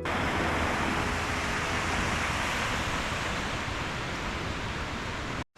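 Steady rush of fast-flowing, storm-swollen stream water, an even hiss without rhythm that breaks off abruptly for a moment near the end.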